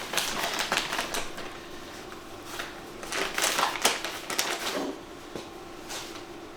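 Rapid clattering clicks in two runs, the first in about the first second and the second from about two and a half to nearly five seconds in, over a faint steady hum.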